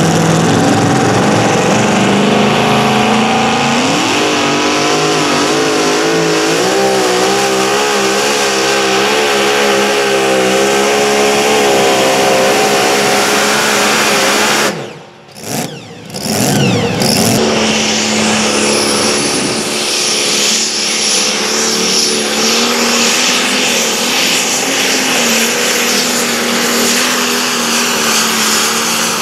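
Engine of a competition pulling vehicle running hard under load, rising in pitch and then wavering rapidly up and down. It breaks off abruptly about halfway, and another pulling engine runs on steadily with a thin high whine above it.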